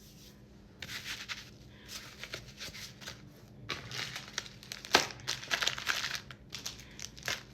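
Plastic packaging crinkling and rustling in irregular bursts as items are handled, with a sharp click about five seconds in.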